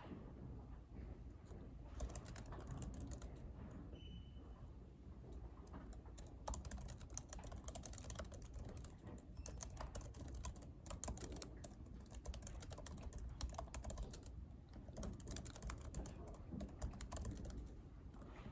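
Typing on a computer keyboard in runs of rapid key clicks, with short pauses between the runs, over a steady low room hum.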